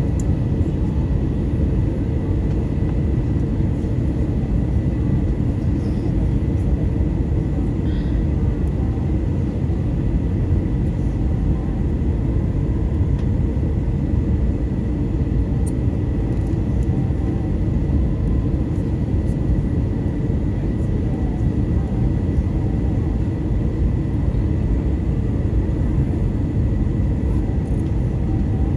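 Steady cabin noise inside an Airbus A320 in flight: a deep, even rumble of engines and airflow with a thin steady whine above it.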